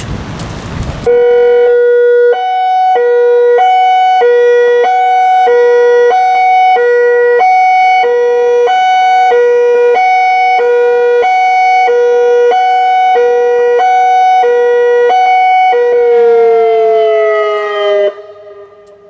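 Federal Signal Modulator 6024B electronic outdoor warning siren sounding its high-low tone: two pitches alternating roughly every second, starting about a second in. Near the end the tone slides down in pitch and stops.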